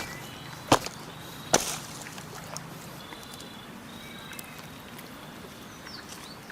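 Three sharp knocks within the first two seconds, then quiet outdoor ambience with a few faint high chirps.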